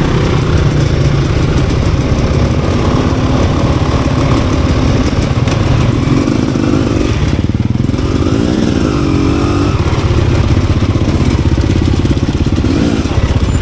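Enduro motorcycle engine running under way, its revs rising and falling. There is a brief swell in pitch a little past the middle.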